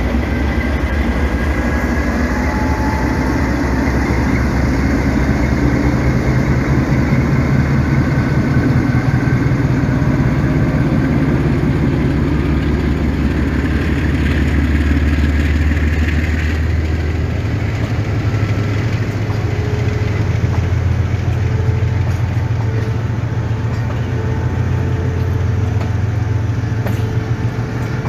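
A Pakistan Railways GEU-20 diesel-electric locomotive passing close, followed by a long train of passenger coaches rolling by on the rails. The rumble is loud, steady and deep.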